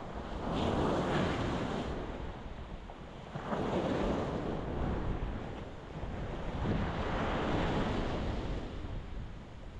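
Ocean waves breaking on a rocky shore, the surf swelling and easing in a slow rhythm, with three surges: about a second in, around three and a half seconds, and a longer one from about six to eight seconds.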